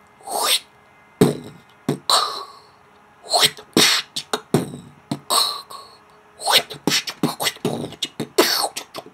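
Beatboxing with inward 'we' sounds: forceful inhaled scrapes like masking tape ripped off a cardboard box, a few on their own at first, then worked into a fast beatbox pattern of clicks and scrapes from about three seconds in.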